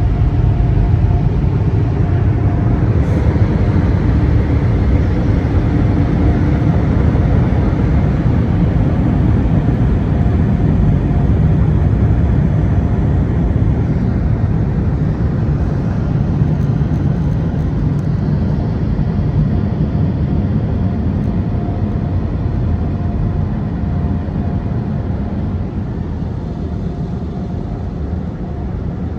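PDQ LaserWash G5-S touch-free car wash running: a loud, steady rushing rumble with a faint steady tone, easing slightly near the end.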